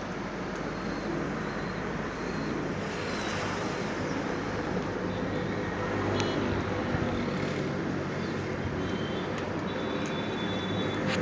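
Steady road traffic noise: a constant hiss with a low engine hum, and a few brief high tones now and then.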